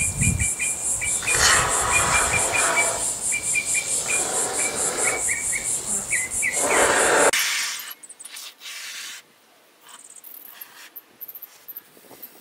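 Insects trilling steadily outdoors, a fast even pulsing, with repeated short chirps and swelling rushes of noise. About seven seconds in, it all cuts off abruptly to a much quieter background with scattered faint clicks.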